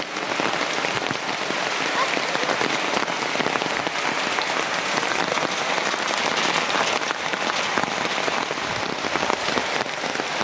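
Heavy rain falling steadily: a dense, even patter of many drops.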